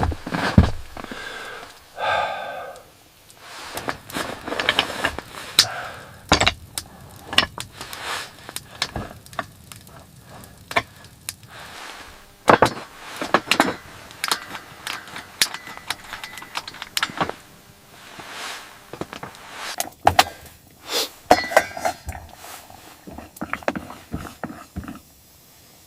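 A long run of irregular knocks, clicks and thuds, with a brief pitched sound about two seconds in.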